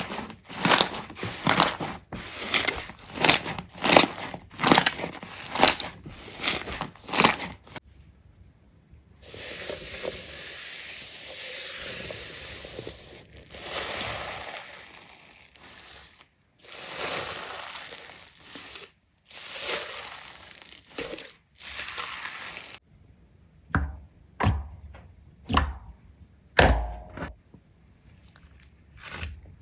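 Hands working slime: a run of sharp squishy pops about twice a second, then a long stretch of steady crunching as the slime is pressed and kneaded, and a few dull thuds near the end.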